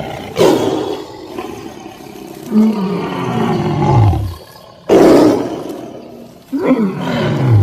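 Leopard cat calling: two harsh hissing bursts, about half a second in and again near five seconds, and two long calls that slide down steeply in pitch.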